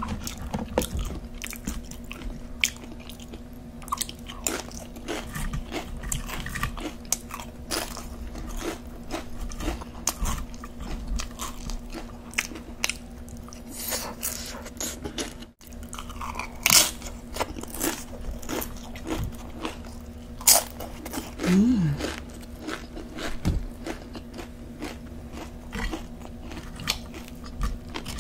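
Close-miked crunching and chewing of tortilla-chip nachos: repeated bites and chews, over a faint steady hum, with a brief dropout about halfway through.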